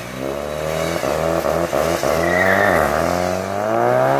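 Car engine accelerating hard with the top down. The revs climb, drop briefly at a gearshift a little under three seconds in, then climb again.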